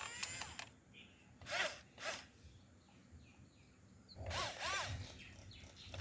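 Small electric motors of a radio-controlled construction model whirring in four short bursts, each rising and falling in pitch, the longest a little past the middle.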